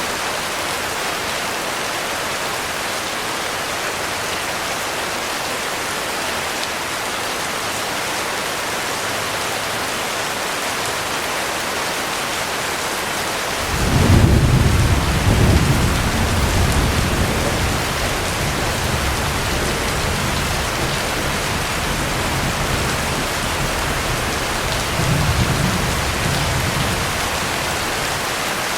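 Heavy rain falling steadily. About halfway through, thunder breaks in with a sudden low rumble that rolls on for many seconds, swelling again briefly near the end.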